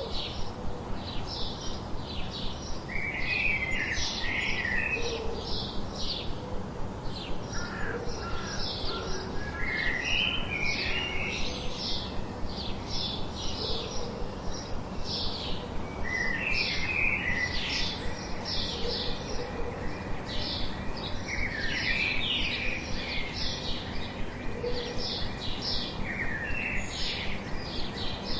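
Birds chirping and singing: rapid short high chirps repeating throughout, with a warbling phrase breaking in every few seconds, over a faint steady hum.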